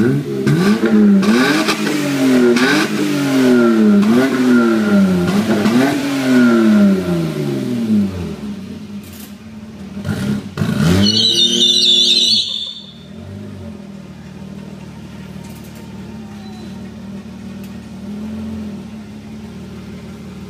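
1989 BMW E30 325i's straight-six running through a Magnaflow exhaust, blipped up and down about seven times in quick succession. After a longer rev with a brief high squeal about eleven seconds in, it settles to a steady idle with one small blip near the end.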